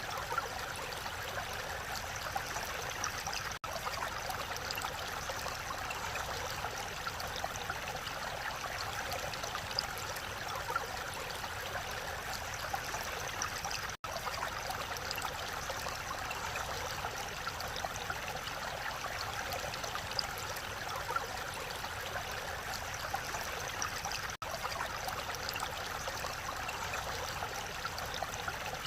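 Mountain valley stream flowing: a steady rush of water that briefly cuts out three times.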